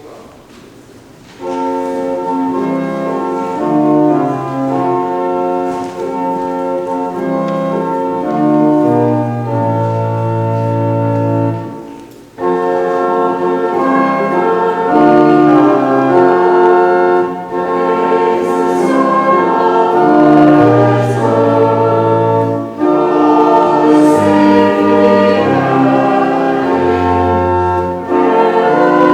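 Church organ playing a hymn tune in held chords, entering about a second and a half in and pausing briefly about twelve seconds in before the next phrase.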